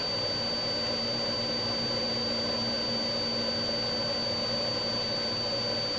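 Steady whine and hum of a police helicopter's turbine engine and rotors as heard inside the cabin, with constant high-pitched tones over a rumble.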